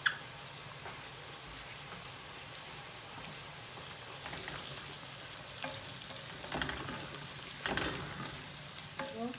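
Chopped onion, garlic and ginger sizzling steadily in oil and ghee in a kadai, with a few short scrapes of stirring in the second half.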